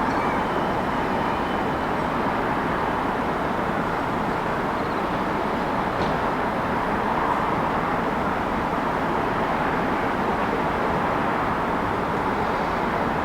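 Steady city traffic noise: an even, unbroken din of passing vehicles, with a faint high tone early on and a small click about six seconds in.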